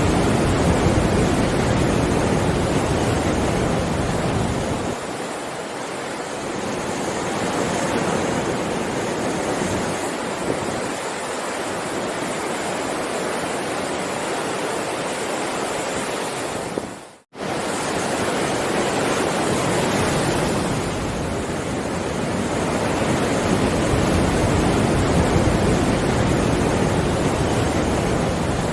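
Heavy ocean surf: a dense wash of breaking waves that swells and eases over several seconds, with a deep low rumble in the stronger surges. About two-thirds of the way through, the sound cuts out for a split second and then resumes.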